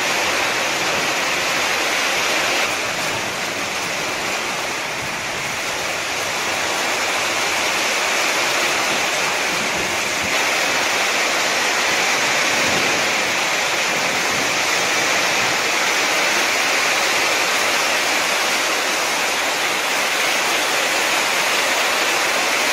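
Torrential rain pouring down in a steady, dense hiss, with water splashing on the ground.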